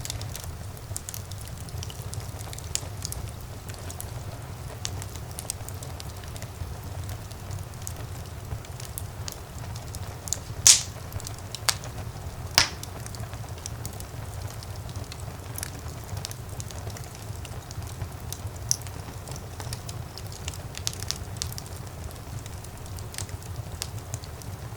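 Fire in a fireplace crackling steadily over a low rumble, with frequent small snaps and two much louder pops about eleven and thirteen seconds in.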